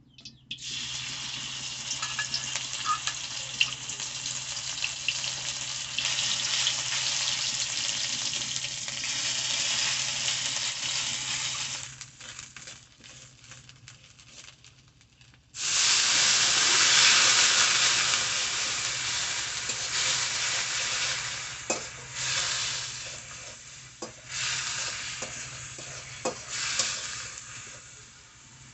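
Spice paste frying in hot oil in an aluminium kadai, sizzling hard as it is stirred with a spatula, a masala base for a shrimp curry. The sizzle dies down for a few seconds, flares up loud again about halfway through, then gradually eases with a few scrapes and ticks of the spatula on the pan.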